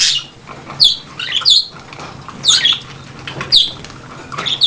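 Young budgerigars giving short, harsh chirping calls, about six in a row, each falling in pitch, with wings fluttering.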